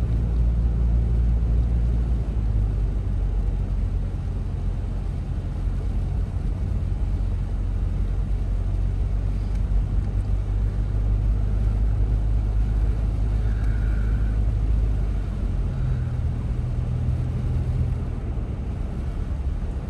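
Car driving, heard from inside the cabin: a steady low engine and road rumble, with the engine note shifting a couple of times.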